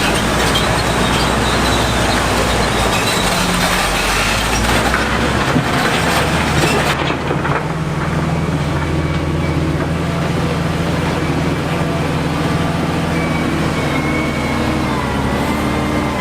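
Heavy construction machinery engine running steadily, with a loud rough noise over it for the first several seconds that cuts off abruptly about seven seconds in.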